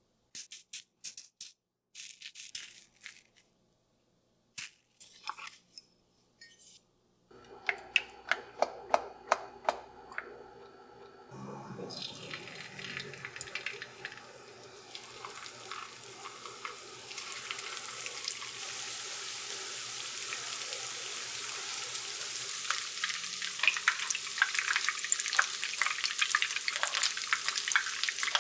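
Short crinkles and taps, then a quick run of sharp clicks, then food frying in a hot pan: a sizzle that starts about twelve seconds in and grows steadily louder, with crackling pops.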